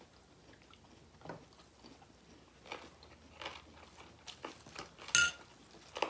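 Close-up eating sounds: chewing and biting with scattered short crunches, the loudest one about five seconds in.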